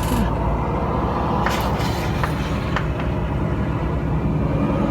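Heavy trucks passing on the road with a steady rumble of engine and tyre noise, with a few short sharp clacks between about one and a half and three seconds in.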